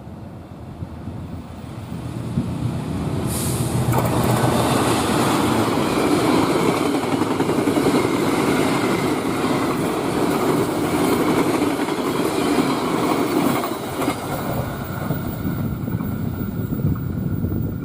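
Passenger train passing at high speed on the main line: the rumble builds up, comes in loud and full about four seconds in, with wheel-on-rail noise, and eases after about fourteen seconds as the train goes by.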